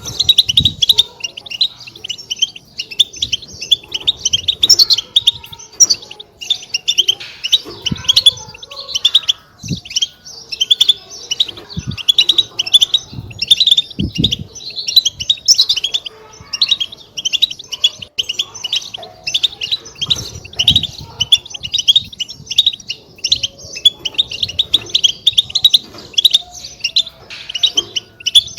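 A group of European goldfinches twittering continuously in fast, overlapping chirps: their 'batbata' chatter. Short low thumps come in now and then.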